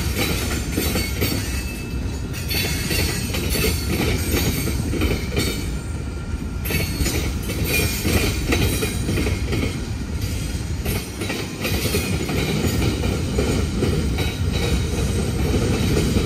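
Norfolk Southern freight train cars rolling past: a steady rumble of wheels on rail with repeated clatter as the wheels cross rail joints.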